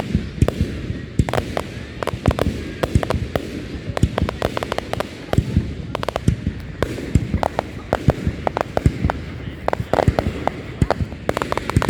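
Fireworks going off: a dense, irregular run of bangs and crackles, several a second, over a low rumble.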